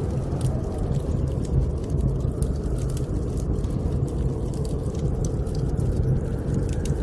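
Blizzard wind blowing as a steady, low rumbling rush, with a wood fire in a fireplace giving off frequent small crackles and pops on top.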